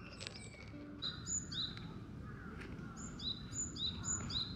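Small birds chirping outdoors: short high calls come in quick runs of two or three, over a steady low background rumble.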